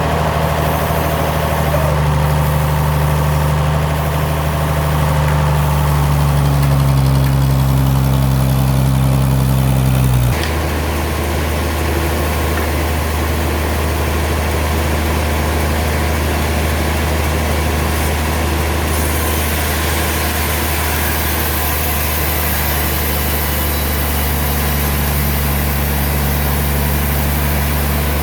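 Sawmill machinery running with a steady, low engine drone. About ten seconds in, a higher tone on top of it cuts off suddenly and the sound drops a little, then runs on evenly.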